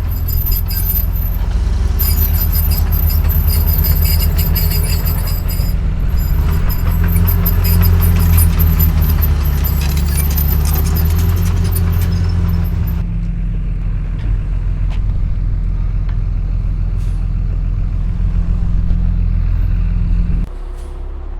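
Caterpillar D3C bulldozer's diesel engine running hard with a steady low drone. For roughly the first 13 s a high squeal and rapid ticking ride over it. The engine sound drops suddenly near the end.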